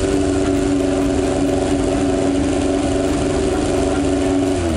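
Toyota 4A-G twin-cam four-cylinder on an engine stand spinning with a steady, even tone, then winding down about four and a half seconds in.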